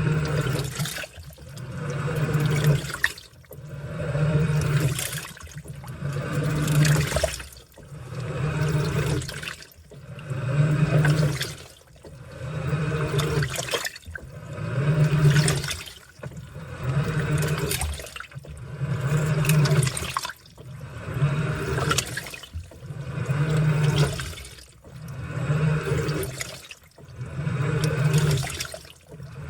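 Washing machine in its wash cycle, water churning and sloshing inside the tub. It comes in regular swells about every two seconds, each carrying the machine's motor hum.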